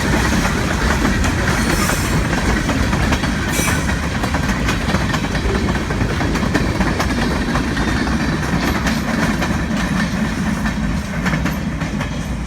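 Maryland Midland freight train rolling past close by: a steady rumble of cars with wheels clicking over the rail joints.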